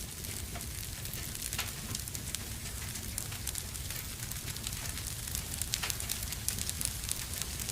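Wood fire burning in a fireplace: a steady low rumble of flames with frequent sharp crackles and pops, which come thicker in the second half.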